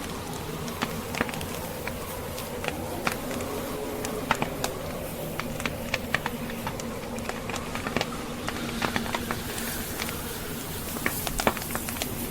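Wood fire crackling, with sharp irregular pops and snaps over a steady rush of storm wind.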